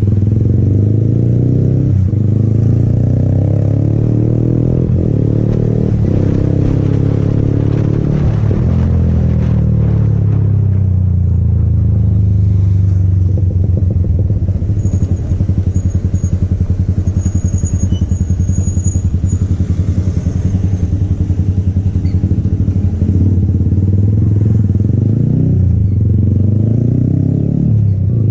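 Yamaha MT-15's single-cylinder engine running on a ride, its pitch rising and falling with the throttle in the first half. Around the middle it settles into a slower, evenly pulsing beat at low revs, then dips and picks up again near the end.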